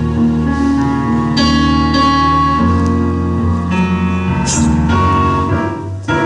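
Keyboard music playing held chords that change every second or so, with a brief drop in level just before the end.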